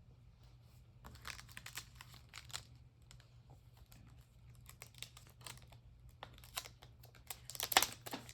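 Paper rustling and crinkling in short irregular bursts as scrap paper is handled, loudest near the end, over a faint low hum.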